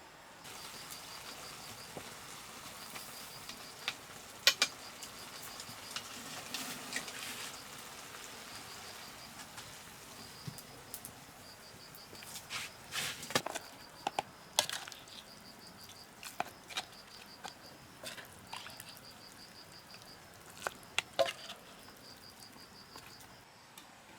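Insects chirping in repeated high-pitched pulsed trains, with scattered sharp clicks and knocks over them.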